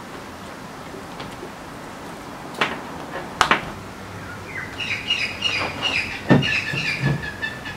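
A bird chirping in a quick repeated run of short high notes, starting about halfway through. Before it come a few sharp clicks, and under it two dull thumps, as a sandal and small tools are handled on a wooden bench.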